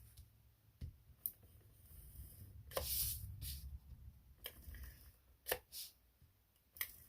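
Paper and small craft tools being handled on a desk: faint scattered taps and clicks, with a longer rustle about three seconds in.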